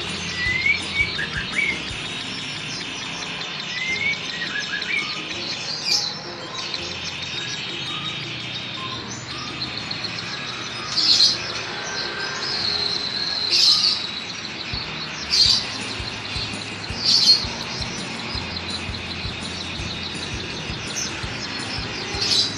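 White-rumped shama (murai batu) singing: short rising whistled notes in the first few seconds, then a series of loud, sharp notes every couple of seconds.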